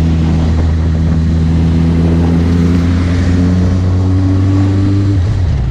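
Suzuki GSX650F's inline-four engine running under steady throttle while riding, its pitch rising slowly and then falling away near the end.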